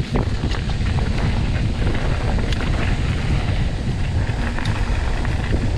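Wind buffeting the camera microphone while riding a mountain bike along a trail, with frequent rattles and knocks from the bike over rough ground.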